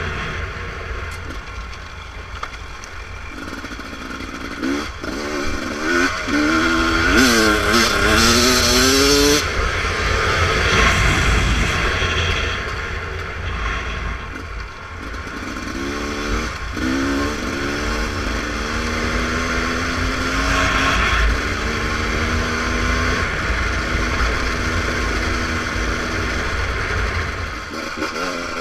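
Beta RR300 two-stroke dirt bike engine on a trail ride, revving up and down in repeated rising pitch sweeps as the throttle is worked. There are two stretches of harder riding, one about a sixth of the way in and one past the middle. A steady low rumble runs underneath.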